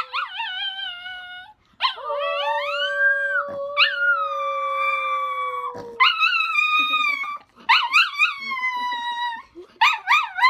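Pet dog howling in long drawn-out notes that waver and slide in pitch, breaking into quick rapid yips, about four a second, near the end.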